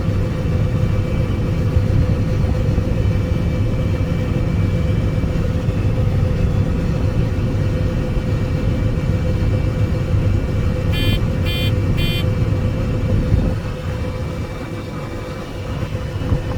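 Combine harvester running steadily, heard from inside the cab with a strong low hum, while unloading corn into a truck. Three short electronic beeps sound about eleven seconds in, and the low rumble drops off a couple of seconds later.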